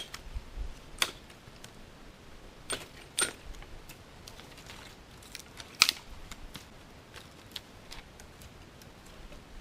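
Scattered sharp snaps and clicks of dry twigs and sticks, about half a dozen at irregular intervals, the loudest about six seconds in.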